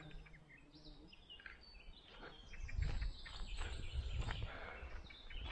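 Small songbirds chirping and whistling in short, quick phrases, with a low rumble swelling up from about halfway through.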